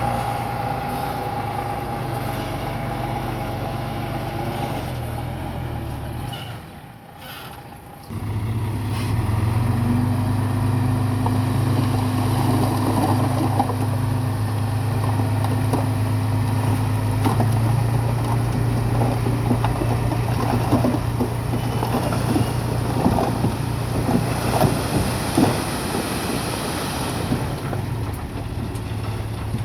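Bulldozer's diesel engine running steadily, dropping away briefly about seven seconds in, then running louder under load with irregular clanking and rattling through the middle.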